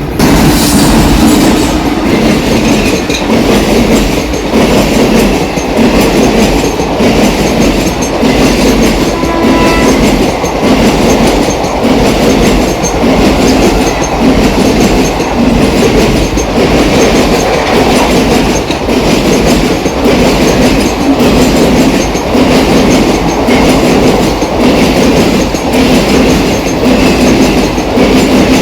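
A train running past close by, its wheels clattering over the rail joints in a steady, regular rhythm. It is loud throughout.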